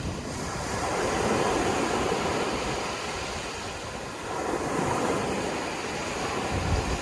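Sea waves washing onto the shore, the surf rising and falling in two swells.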